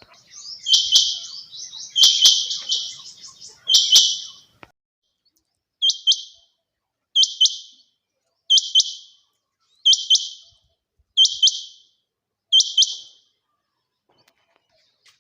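Female quail calling: a run of rapid, harsh, closely packed calls over the first four seconds or so, then six short double-note calls, evenly spaced about one and a half seconds apart.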